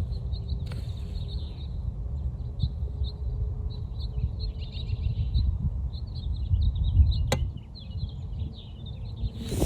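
Small birds chirping over a steady low rumble, with a single sharp click about seven seconds in.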